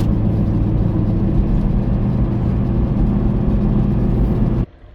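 Steady engine and road drone of a car heard from inside while driving, which cuts off suddenly near the end.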